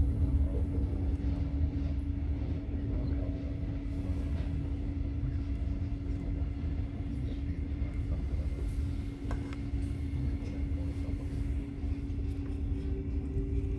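Regional express train running, heard from inside the carriage: a steady low rumble with a steady hum over it. A second, higher hum joins near the end.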